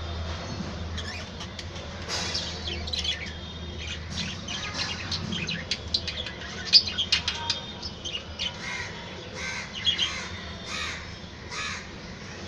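Budgerigars chattering, with a rapid, irregular run of short chirps and harsh squawks.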